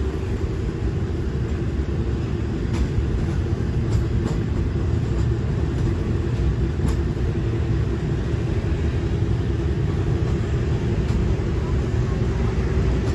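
Diesel-hauled passenger train rolling slowly, heard from an open carriage window: a steady low rumble and drone, with a few light clicks.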